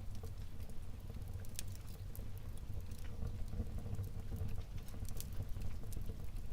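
Wood fire burning in a fireplace: scattered crackles and snaps from the burning logs at irregular moments over a low, steady rumble of the flames.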